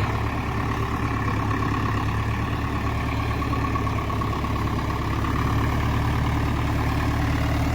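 Mahindra 575 DI XP Plus tractor's diesel engine running steadily with a low, even hum, growing slightly louder about five seconds in.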